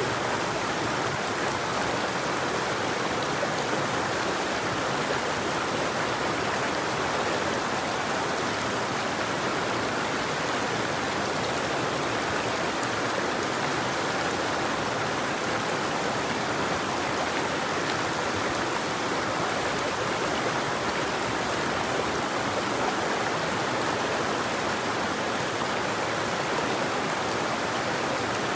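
Flowing river water rushing steadily, an even splashing wash with no birdsong.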